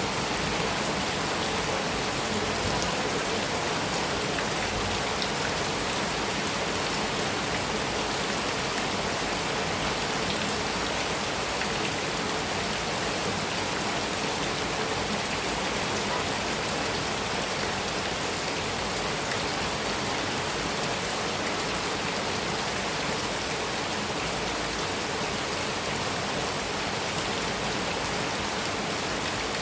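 Heavy rain falling steadily on a metal roof, an even hiss with no thunder.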